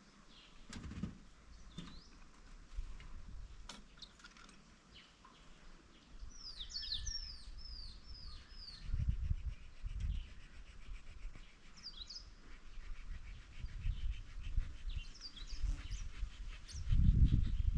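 A bird chirping: a quick run of about six short, downward-sliding chirps, then a few single chirps later on. Low rumbles come and go underneath, louder near the end.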